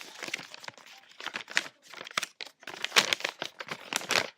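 Paper crinkling and rustling in irregular crackles, strongest about three and four seconds in.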